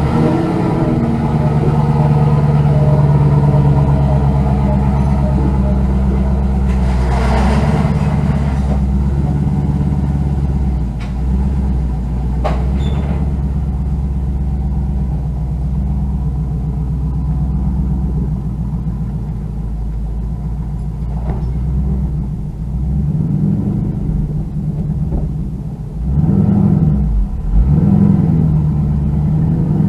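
Car engine with a manual gearbox running in gear under load as the car is driven forward trying to get free of where it is stuck: a steady note for most of the time, then the revs rising and falling several times near the end.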